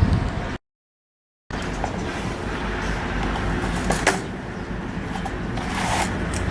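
Ship's engine-room machinery running with a steady low hum. The sound drops out completely for about a second near the start, and a few short knocks come around four seconds in.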